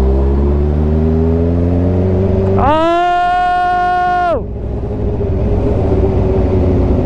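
Sport motorcycle engine accelerating, its pitch climbing steadily for about two and a half seconds, then a long held shout of "Oh!" over it. The engine then runs on at a steady speed.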